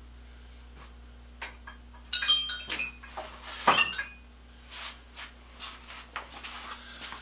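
Steel tools and parts being handled on a workbench: a few small clicks, then a cluster of ringing metal clinks about two seconds in and one sharp, loudest knock a little past halfway, followed by softer scattered taps.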